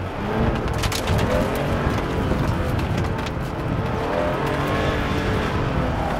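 Porsche 911 SC's air-cooled flat-six engine, heard from inside the cabin, revving up and down as the car is driven hard through a slalom course. A few sharp clicks come in the first second or so.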